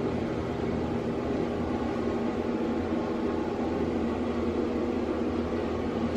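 Steady droning hum of room ventilation, an exhaust fan or air handling, with a constant low tone running under it.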